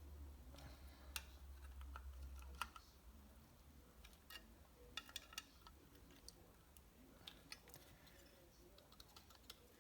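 Faint, scattered light clicks and taps of small parts being handled as a reed valve block is put together, over a low hum that is steady for the first couple of seconds and then fades.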